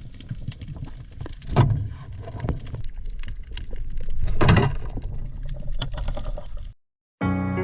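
Water splashing and sloshing around a diver, with a low rumble, scattered small clicks and two louder swishes. It cuts off abruptly near the end, and guitar music begins.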